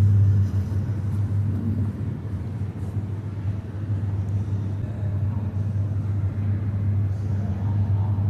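A steady low-pitched hum or rumble under a faint even background noise.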